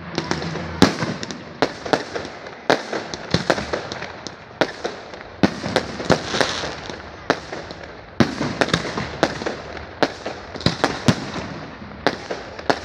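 Fireworks display: aerial shells bursting in an irregular series of sharp bangs, one or two a second, with crackling between them.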